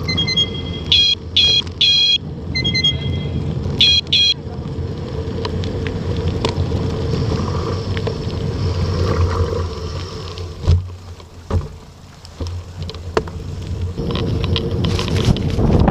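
Car horn honking in short, repeated beeps during the first four seconds, over the steady low rumble of a vehicle and wind noise.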